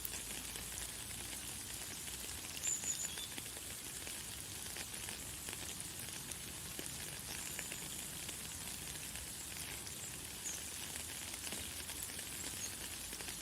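Light, fine rain falling steadily, a dense even patter of tiny drops, with a few brief high bird chirps a few seconds apart.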